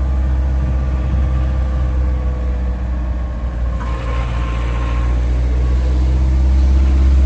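A large engine running steadily with a deep, constant hum, and a brief hiss about four seconds in.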